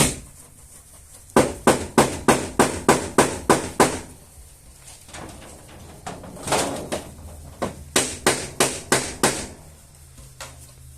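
A metal hammer tapping on a car's rear fender sheet metal in two quick runs of about four blows a second, with a pause of softer scraping noises between them. These are the taps of panel and dent work being hammered out.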